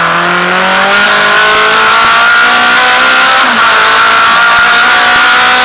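Naturally aspirated Alfa Romeo race car engine accelerating, heard from inside the cabin: its pitch climbs steadily, drops briefly at an upshift about three and a half seconds in, then climbs again.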